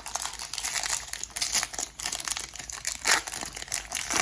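Foil Pokémon booster pack wrapper crinkling as it is handled and opened, with a louder crackle about three seconds in.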